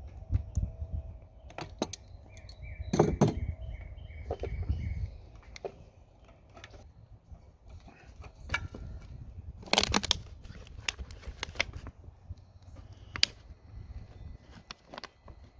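Metal tools and parts clicking and clinking as bolts and screws are taken off a lawn mower, sharpest about three and ten seconds in. Birds chirp in the background.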